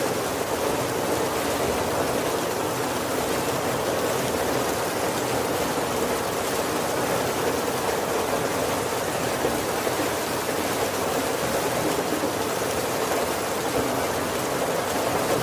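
Steady heavy rain falling on the wooden roof of a carriage, heard from inside as an even rushing patter.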